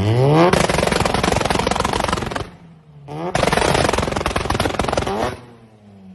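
Car engine revved hard twice, each time with about two seconds of rapid machine-gun-like exhaust pops and crackles, then the engine note falling away. This is exhaust popping, unburnt fuel firing in the exhaust.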